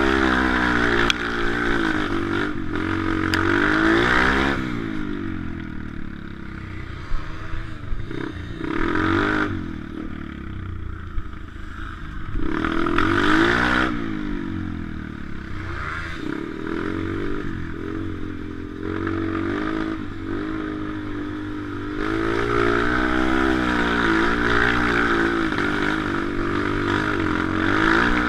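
Small pit bike engine revving up and down over and over as the bike is ridden, pitch climbing and falling every few seconds, with a few sharp knocks and rattles.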